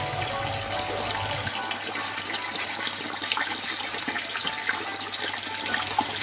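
Water running hard and splashing steadily, with small clicks and knocks scattered through it.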